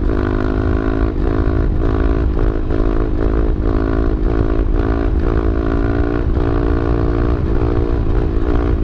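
A 125cc single-cylinder four-stroke pit bike engine held at steady high revs under throttle, as in a long wheelie, its pitch dipping slightly about twice a second as the throttle is feathered. Wind rumbles on the chest-mounted microphone underneath.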